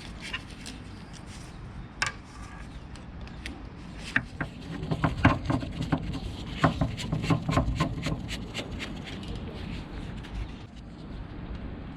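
Hand tools and metal parts clinking and rattling, with a dense run of clicks and knocks in the middle few seconds.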